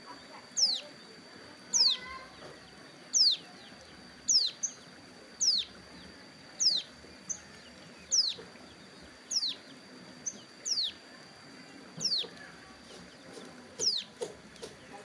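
Ciblek gunung, a prinia, calling a repeated sharp note that sweeps down in pitch, about one every 1.2 seconds, with short high chips between; the bird is molting its wing feathers but still calling. A steady high whine runs underneath.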